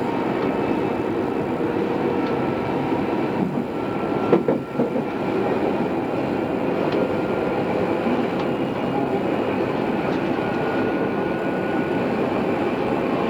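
Odakyu 2600 series electric commuter train running, heard from inside the car: steady rolling noise with a faint high whine that comes and goes. There is a brief knock about four and a half seconds in.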